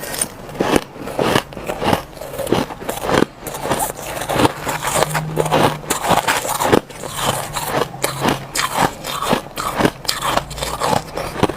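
A person biting into and chewing crushed ice: dense, irregular crunching and crackling, several bites and chews a second, close to the microphone.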